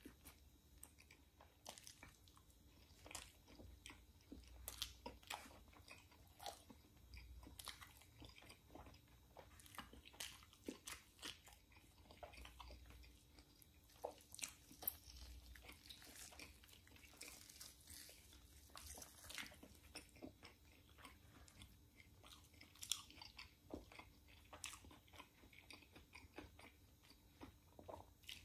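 Quiet, close-miked chewing of rotisserie chicken and pita bread: soft, wet mouth sounds with irregular crisp clicks and smacks. Around the middle, hands pull the roast chicken apart.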